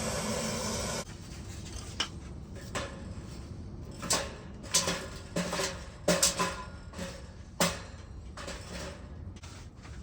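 Wood being loaded into a small metal wood stove: a series of uneven clanks and knocks, each with a short metallic ring, the loudest cluster in the middle. A steady rushing noise cuts off about a second in.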